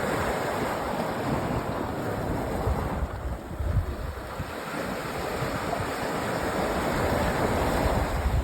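Sea waves washing onto a sandy beach, the surf swelling and easing in two long surges, with wind buffeting the microphone in low rumbles.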